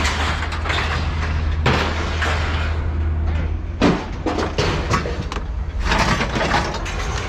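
Scrap metal auto parts being thrown down onto a scrap pile, clanking in a string of separate impacts, the loudest about four seconds in, over the steady hum of an engine running.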